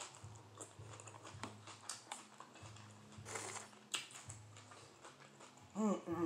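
Mouth sounds of biting and chewing a crisp romaine lettuce wrap: a run of short, sharp crunches and crackles. There is a brief hummed voice near the end.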